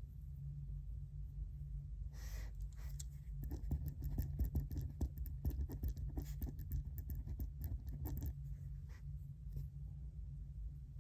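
Writing on paper: quick scratchy pen strokes come in a dense run through the middle and thin out near the end, with a brief rustle just before, over a steady low hum.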